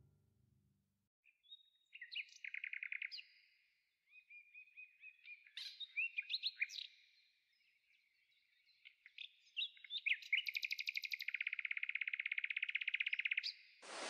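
A songbird singing: short chirps and quick warbled notes broken by fast trills, with the longest trill near the end.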